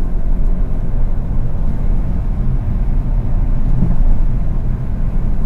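A car driving along a street: a steady low rumble of engine and road noise.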